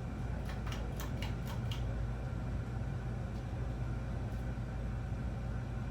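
SMC-made Hampton Bay Cameron II 52-inch ceiling fan running on high, a steady motor hum under the rush of moving air, with a few light clicks about a second in. The hum is typical of the SMC-built motor.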